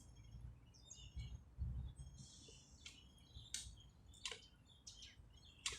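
Small birds chirping faintly, with several short high calls and quick downward chip notes, over a low rumble.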